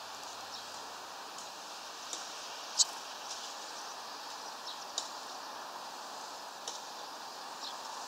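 Scattered short, high chirping call notes of small birds over a steady background hiss, the loudest a single sharp note about three seconds in and another about five seconds in.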